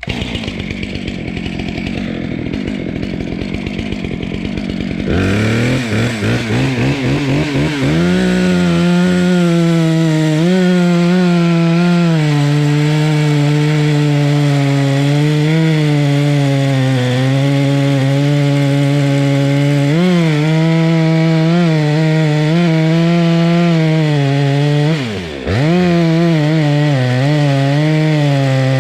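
Chainsaw engine, rough and uneven at first, then revving up and held at high speed with a slight wavering as it cuts wood. It drops sharply for a moment about 25 seconds in, then comes straight back up.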